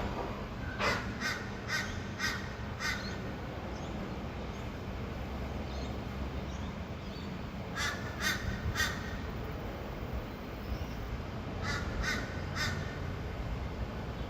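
A bird calling in three runs of short, harsh notes, three to five notes in each run at about two a second, with a steady low hum of distant traffic underneath.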